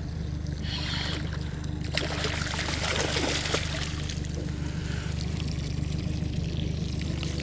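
Water splashing and trickling, busiest with scattered splashes about two to four seconds in, over a steady low hum.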